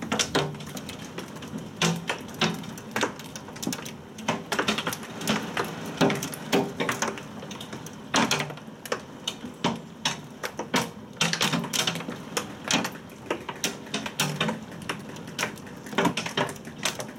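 Hailstones striking hard surfaces during a heavy thunderstorm: irregular sharp knocks, several a second, over a faint steady hiss of rain.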